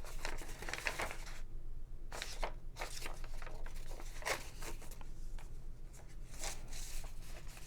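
Paper and card rustling and crinkling in short, irregular strokes as the pages and inserts of a handmade junk journal are handled, with a few louder rustles near the middle and end.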